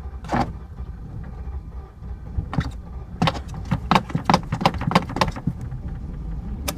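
A 1997 BMW 740iL's V8 running just after a cold start on a little fresh fuel, following five months of sitting, with a steady low rumble. A quick run of sharp clicks comes in the middle.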